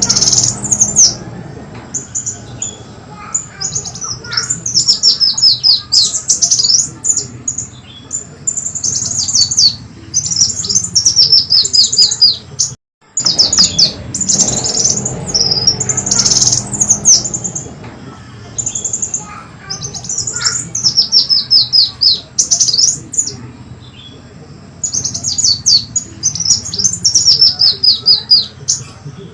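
Kolibri wulung sunbird song played as a lure call: bursts of rapid, high-pitched chirps, many in quick runs that fall in pitch, repeated over and over, with a brief silent break about halfway through.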